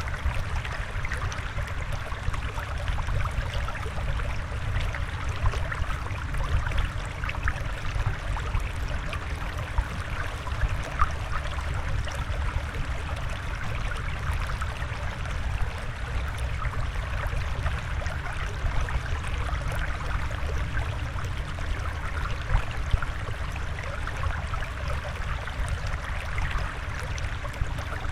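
Water flowing and trickling steadily, a continuous bubbling rush with fine splashy crackle and a low rumble underneath.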